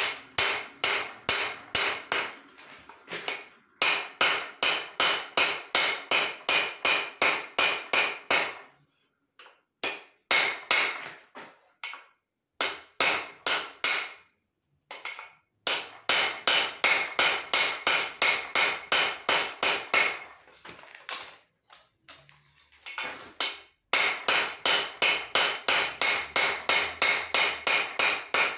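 A hand hammer striking steel on an anvil in steady runs of about three blows a second, each blow ringing, with short pauses between the runs.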